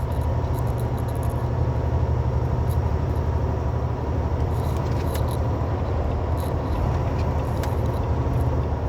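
Semi truck's diesel engine running under steady load, a continuous low drone heard from inside the cab along with road noise.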